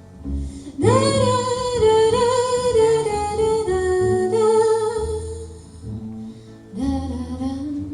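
Live acoustic band playing a passage between verses: acoustic guitar accompaniment with a sustained melody line, wordless singing or a lead instrument, coming in about a second in, breaking off briefly and returning near the end.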